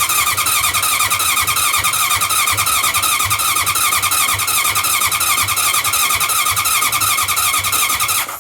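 Electric starter cranking an old Harley-Davidson motorcycle engine for about eight seconds in an even, pulsing rhythm, then cutting off abruptly. The engine spins over strongly on a new battery but never fires: a no-start with good cranking.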